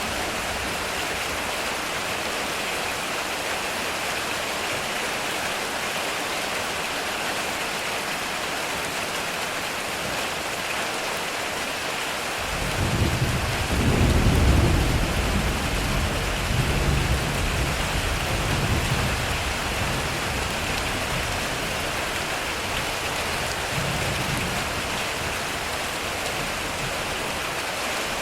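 Heavy rain drumming steadily on a metal roof. About halfway through, a deep roll of thunder rumbles in, swells loudest a couple of seconds later and rolls on in several waves for about seven seconds before fading back under the rain.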